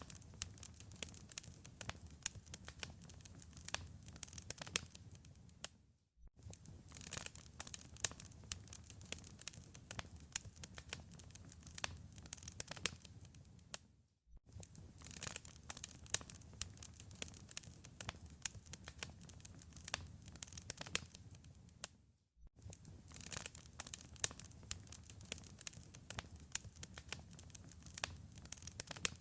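Wood fire crackling, with many sharp pops and snaps over a low rumble. The sound drops out briefly about every eight seconds, then comes back.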